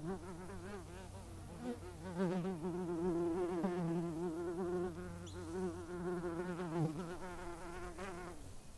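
Flying insect buzzing, its wingbeat pitch wavering up and down as it moves. It cuts off shortly before the end.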